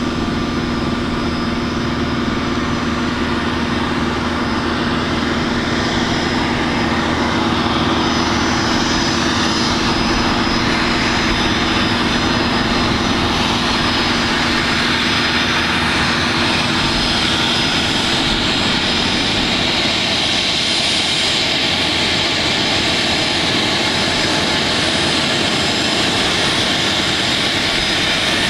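Bombardier CRJ-200 regional jet's turbofan engines running as the aircraft taxis, a steady jet whine over a low hum that grows a little louder about a quarter of the way in.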